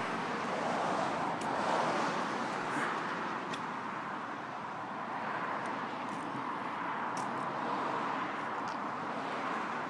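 Steady outdoor background noise, like distant traffic, with a few faint clicks.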